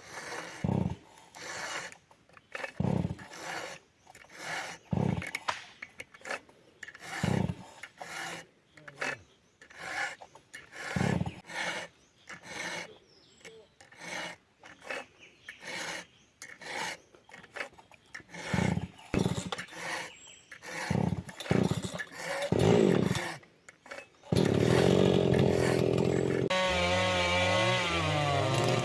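Wood being sawn in slow, uneven rasping strokes, about one or two a second. About four seconds before the end, a chainsaw engine suddenly starts running loudly, its pitch wavering.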